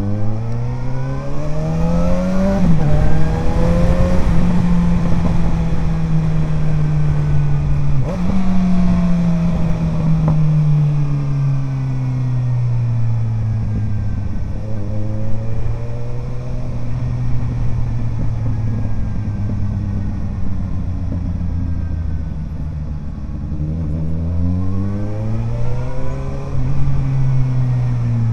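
Suzuki GSR 750's inline-four engine through an Ixrace Z7 aftermarket exhaust, ridden on the road. The revs climb and then drop sharply on a quickshifter upshift about two and a half seconds in. About eight seconds in, the revs jump up suddenly on a downshift and then fall away slowly into a steady cruise, before climbing again under acceleration near the end.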